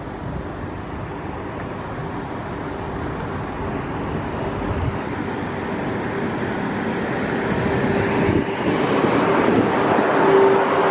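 A train approaching, its running noise growing steadily louder, with a steady humming tone that grows stronger near the end.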